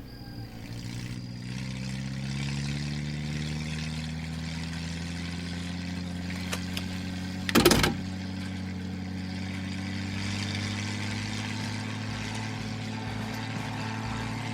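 Car engine running, its pitch rising over the first couple of seconds as it speeds up, then holding steady. There is one loud thump about seven and a half seconds in.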